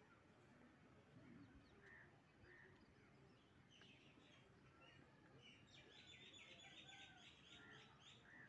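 Faint birds chirping over quiet outdoor background noise: a few short calls in the first half, then a fast run of repeated chirps in the second half.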